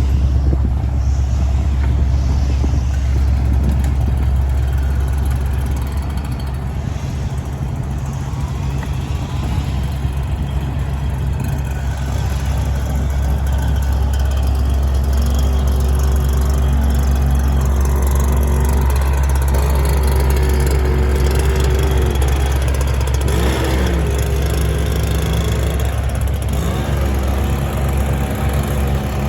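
Heavy engine running steadily. From about halfway a wavering whine rides over it, with a brief rise and fall in pitch near the end.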